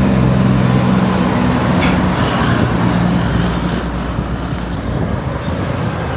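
Heavy truck engine running, a low steady note with road noise, easing slightly in level. A faint high thin whine runs through the middle.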